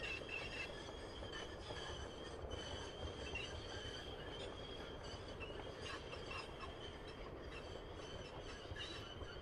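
Sugar cane train wagons on a narrow-gauge cane railway rolling past, a low rumble under a steady high-pitched wheel squeal.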